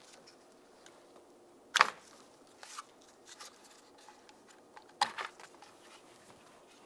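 Power window switch being removed from the door trim: two sharp clicks about three seconds apart, with a few fainter ticks between them.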